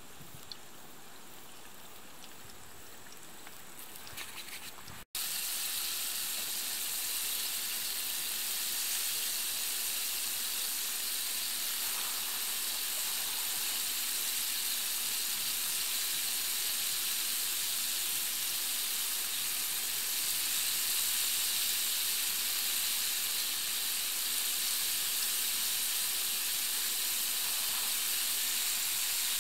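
Chicken gizzards deep-frying in oil in a small pot: a steady, loud sizzle that starts abruptly about five seconds in.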